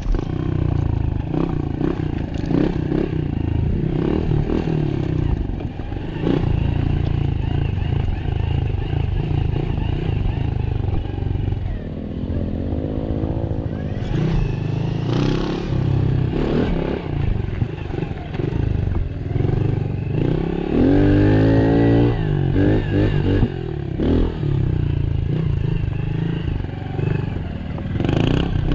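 Small-bore motorcycle engine running as it is ridden, its pitch rising and falling with the throttle, most clearly a little before halfway and again about three-quarters through.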